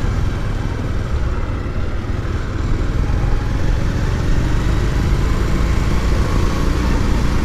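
Motorcycle running steadily on the road, heard from the rider's own microphone as a steady low rumble of engine and road noise.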